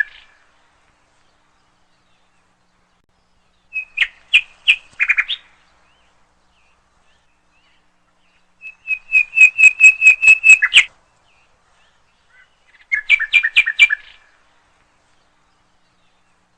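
Bird chirping in three short bursts of quick repeated notes, the middle burst the longest at about two seconds, with silence between them.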